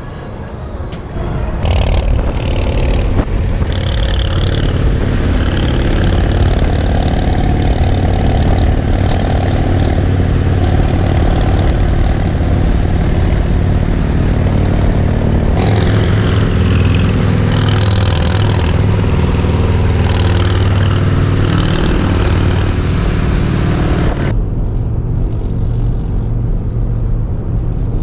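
Harley-Davidson motorcycle engines running under way on the road, loud and steady, after rising sharply about a second and a half in; near the end the high hiss drops away, leaving the low engine sound.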